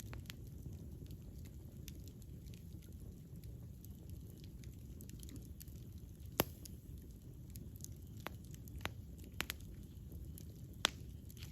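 Campfire burning: a steady low rumble of flames with scattered sharp crackles and pops. The loudest pop comes about six seconds in, and another near the end.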